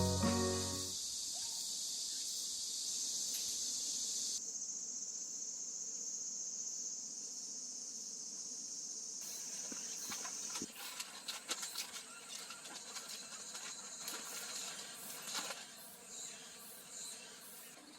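Summer insects shrilling in a steady high-pitched chorus, its pitch band narrowing about four seconds in. It gives way about ten seconds in to soft irregular clicks and rustling.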